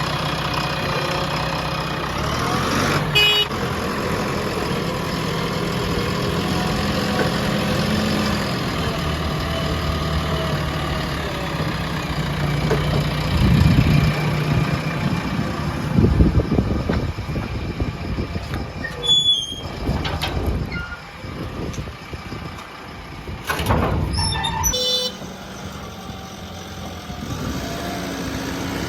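Heavy diesel engines of a backhoe loader and tractors running steadily, with louder knocks and clatter in the middle and a few brief high beeps.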